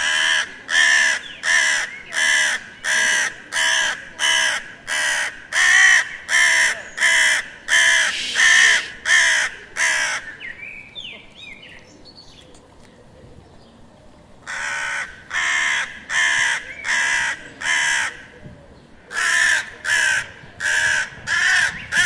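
Crow cawing over and over, about two harsh calls a second, in three runs broken by two short pauses.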